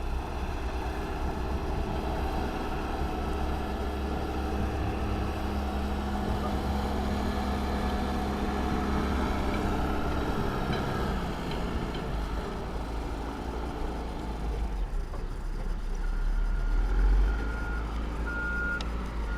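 A heavy vehicle's engine runs and passes, with a steady rumble. Near the end a reversing alarm beeps several times as a vehicle backs up.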